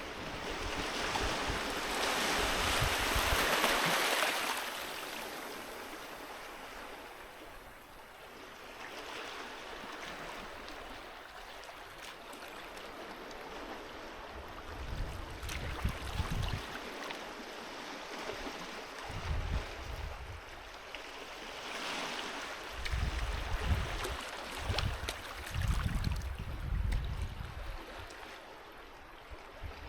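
Sea waves washing onto a beach, a steady rush that swells about two to four seconds in and then eases. In the second half, short low rumbling bursts come and go several times and are the loudest sounds.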